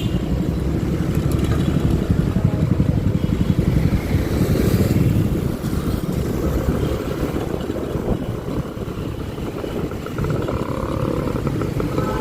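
Honda Click 125i scooter being ridden, its small engine running under steady wind noise buffeting the microphone, with road traffic around it.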